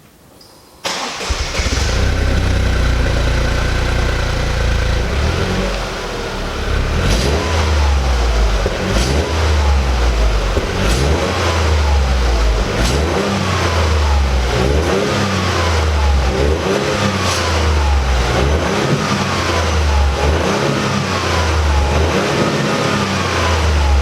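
Toyota GR Yaris's 1.6-litre turbocharged three-cylinder engine, breathing through an Akrapovic aftermarket exhaust, starting about a second in and settling to idle. It is then revved in short blips about every two seconds, each rev falling back toward idle.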